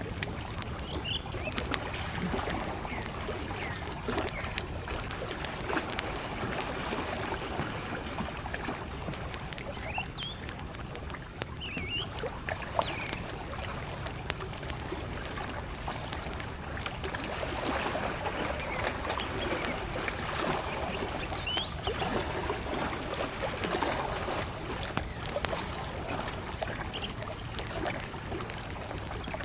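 Small lake waves lapping at the shore, with a campfire crackling in sharp scattered pops. Short bird chirps sound now and then in the distance.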